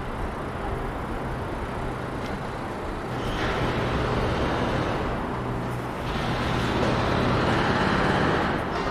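City street traffic: motor vehicles passing, with engine and tyre noise swelling louder about three seconds in and again about six seconds in.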